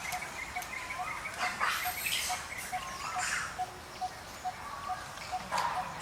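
Outdoor ambience of birds calling: one bird repeats a short, low note evenly a little more than twice a second throughout, with other high chirps and short squeaks over it and a few brief rustling noises.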